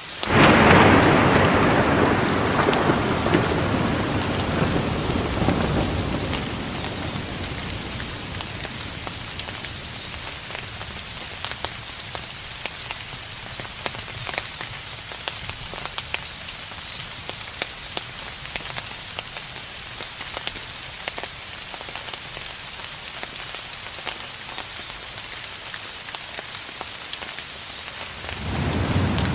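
Steady rain with scattered drops, and a roll of thunder that breaks suddenly just after the start and rumbles away over about six seconds. Another thunder roll begins near the end.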